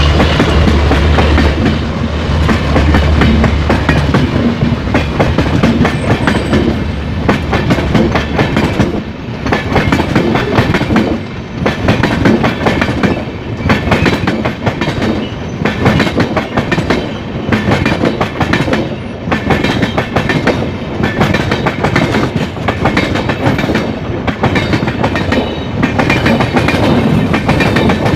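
LHB passenger coaches passing close by, their wheels clattering over rail joints in a steady repeating rhythm. The low drone of the twin WDM-3A diesel locomotives fades out in the first few seconds.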